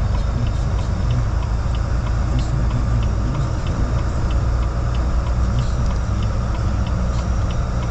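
Steady low rumble of a car driving, heard inside the cabin, with a faint regular ticking about three times a second.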